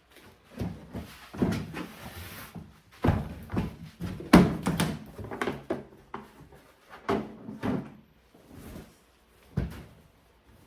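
Litter box cleaning: a series of hollow plastic knocks and thuds, with a brief scraping of a scooper through litter about two seconds in. The loudest knock comes about halfway through.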